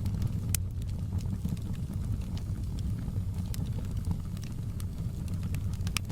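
Wood fire burning with a steady low rumble and scattered sharp crackles and pops, a few louder pops standing out.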